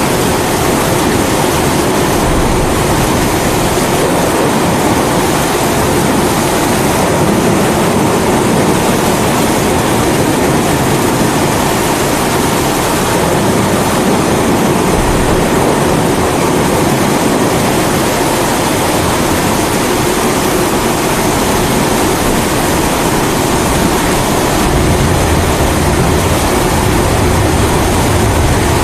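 Kerosene pressure stove (primus) burner hissing steadily, mixed with steady rain; a low rumble of thunder swells near the end.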